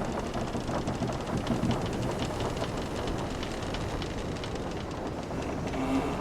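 Wooden sailing ship's timbers creaking and ticking over a steady wash of sea and hull noise. Many small clicks run throughout, with a short, clearer creak near the end.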